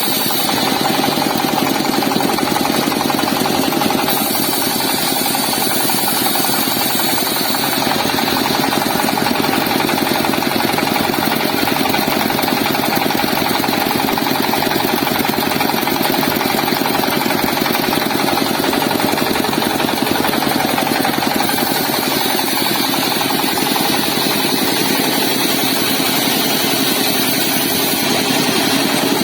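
Car engine running steadily, driving a wood-sawing rig (a homemade sawmill).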